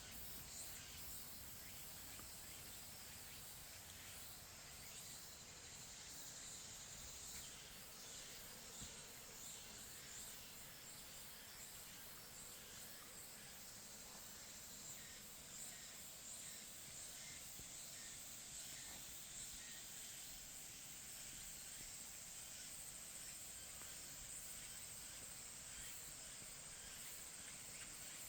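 Faint pine-forest ambience: a steady, high insect trill over a soft hiss, with a few faint ticks.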